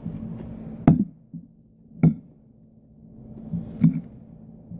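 Three sharp clinks of an eating utensil against a dish, spread over about three seconds.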